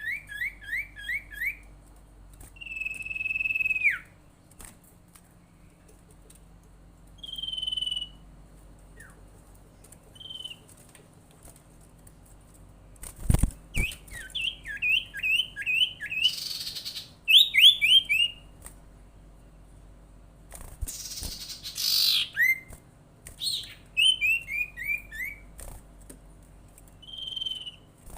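Sirtu songbird calling: rapid runs of five or six quick falling chirps alternate with single clear whistled notes, with a couple of harsh rasping calls about two-thirds of the way through. A single sharp knock sounds near the middle.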